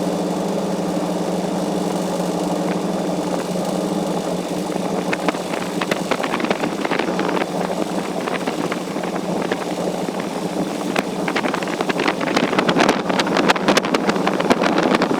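Car ferry's engines running with a steady drone, sped up four times. From about a third of the way in, irregular crackling and knocks build up over the drone, densest near the end.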